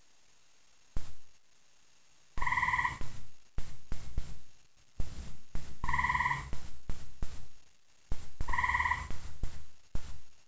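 Gray tree frog calling at night: three short, loud trills about three seconds apart, each lasting about half a second, with clicks and a low rumble around the calls.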